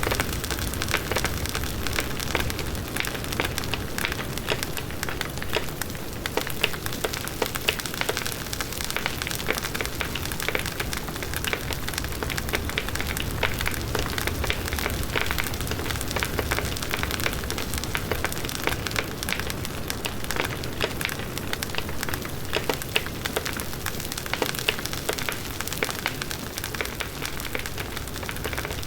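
Large wood bonfire burning steadily: dense, continuous crackling and popping of the burning wood over a low rumble of the flames.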